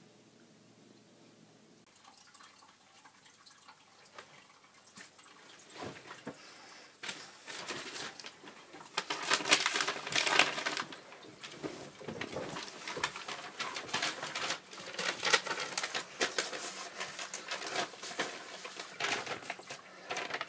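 Water splashing and running, starting faintly about two seconds in and getting louder after about seven seconds, with many small crackling splashes.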